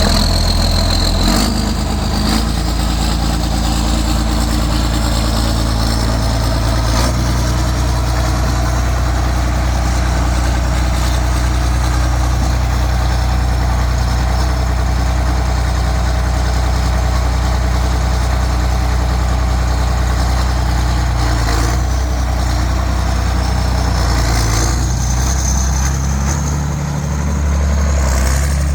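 John Deere 4840 tractor's six-cylinder diesel engine running steadily at low speed, its note dipping briefly near the end and then picking back up.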